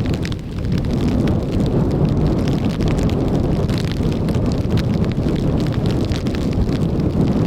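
Strong wind buffeting the microphone in a loud, steady rumble, with hard rain falling and scattered drops ticking throughout.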